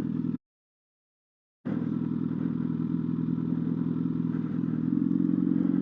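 Motorcycle engine running steadily, with a stretch of dead silence of about a second just after the start where the sound is cut out.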